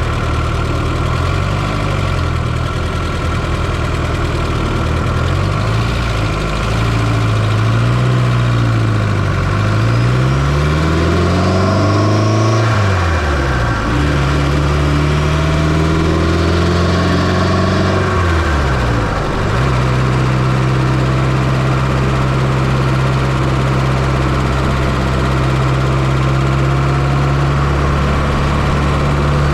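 Fiat Coupe 2.0 16V turbo engine, heard from inside the engine bay, revved up and down several times, its pitch rising and falling, then held at a steady speed for the last third.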